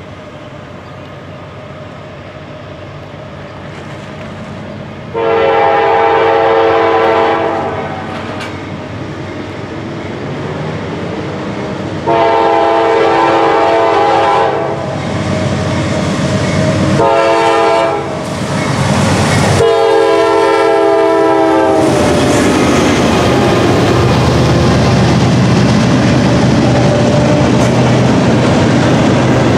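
Norfolk Southern GE D9-40CW diesel locomotive approaching and sounding its horn in four blasts, long, long, short, long: the grade-crossing signal. From about two-thirds of the way in, the locomotives pass with a steady low engine hum, followed by double-stacked intermodal cars rolling by with the clatter of wheels on rail.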